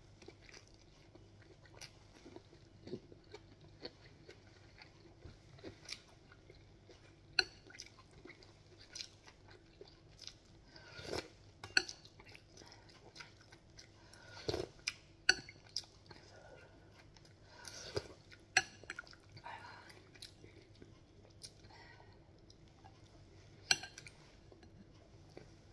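Close-up chewing and mouth noises of a person eating rice, dried fish and noodle soup by hand, with many small wet clicks and smacks and a few louder, longer mouth noises. A faint steady hum underlies it.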